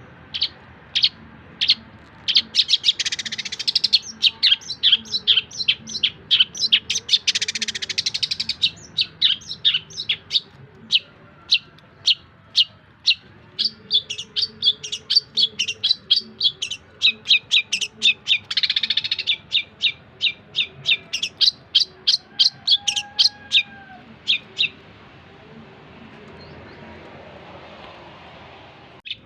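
Long-tailed shrike (cendet) singing a fast run of sharp, repeated chirps, about three a second, broken by a few harsh rasping bursts. The song stops about 25 seconds in.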